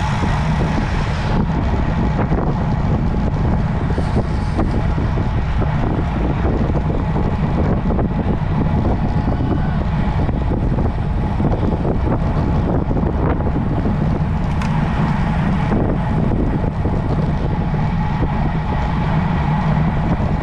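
Steady wind rumble on the camera microphone of a road bike being ridden at speed, with the rush of moving air.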